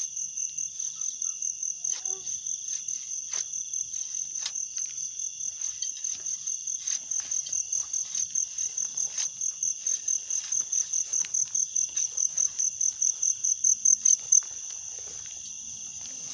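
An insect, likely a cricket, calling with a high, steady train of pulses at about four a second that grows louder and stops abruptly near the end.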